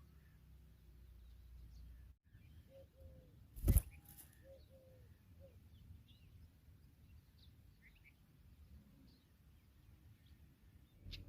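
Faint outdoor ambience with scattered short, thin bird chirps and a few brief lower notes. A single sharp knock about a third of the way in is the loudest sound.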